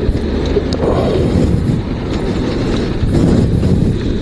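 Dnepr 16 sidecar motorcycle's two-cylinder boxer engine running at low revs, a steady low, pulsing drone, while the bike is suffering from engine trouble.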